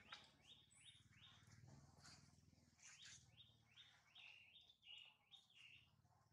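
A bird calling faintly: a run of a dozen or so short, falling notes, about two or three a second, over a low background hum.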